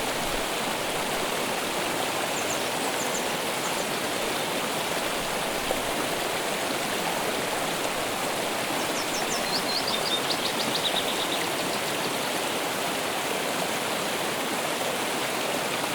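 A stream flowing with a steady rush of water. A bird gives a few brief high chirps about two to three seconds in, and a quick descending run of chirps around ten seconds in.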